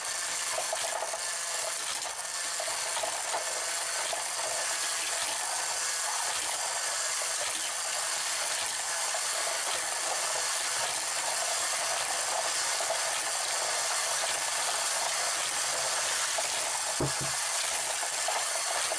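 Hot Wheels Power Tower wall track running: a steady mechanical whir with a faint rattle of die-cast toy cars on the plastic track, and one short knock near the end.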